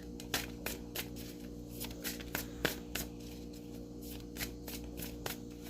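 A deck of cards being shuffled and handled: a run of light, irregular flicks and taps, several a second, over a faint steady hum.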